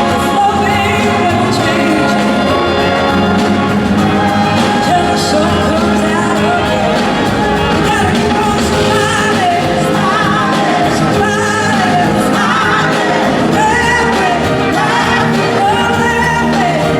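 Rock and soul band playing live, with a wavering lead vocal line over a steady rhythm section.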